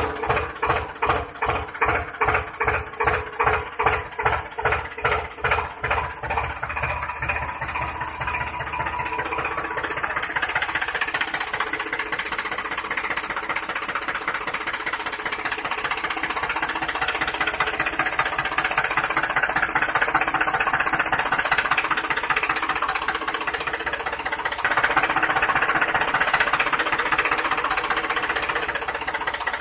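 Motor of a homemade model tractor with a bund-making attachment, running with rhythmic knocking. The knocks start at about two to three a second, speed up over the first ten seconds or so into a steady mechanical buzz, and get a little louder about 25 seconds in.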